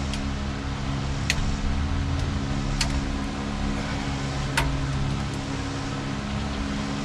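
Steady low mechanical hum with three sharp metallic clicks about a second and a half apart from hand tools torquing cylinder-head bolts.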